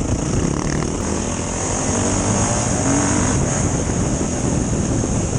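Motorcycle engine running steadily under a constant high hiss.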